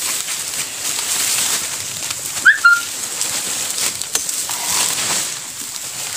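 A short bird call about two and a half seconds in, a quick rising chirp then a brief held note, over a steady high hiss. A sharp knock sounds about four seconds in.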